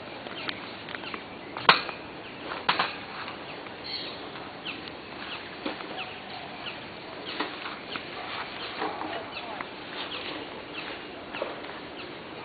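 Outdoor ambience with scattered short bird chirps and calls, and two sharp clicks or knocks about two and three seconds in.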